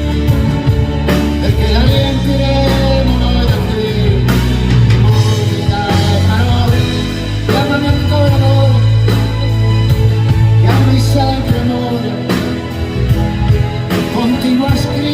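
Live rock band music in an instrumental passage of a song: drums striking regularly over sustained bass notes, with melodic lines above.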